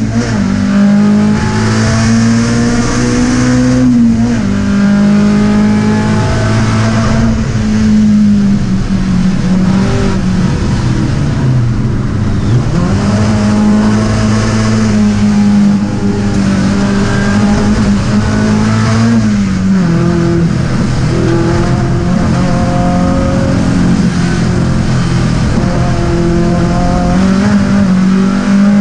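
Škoda 130 RS race car's rear-mounted 1.3-litre four-cylinder engine running hard at racing revs, heard from inside the cabin. The note climbs and then drops back several times as the car shifts and slows for corners, with clear drops about four seconds in and again about two-thirds of the way through.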